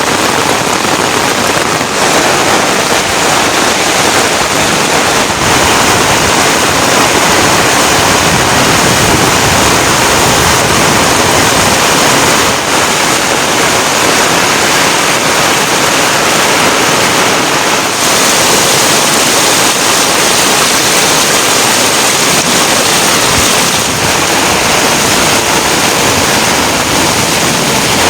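Heavy rain falling: a loud, steady rush of noise with no let-up.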